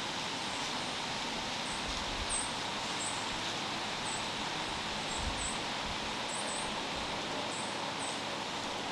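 Outdoor woodland ambience: a steady hiss of wind and leaves, with about ten short, high, thin bird chirps scattered through it. A few low wind rumbles hit the microphone.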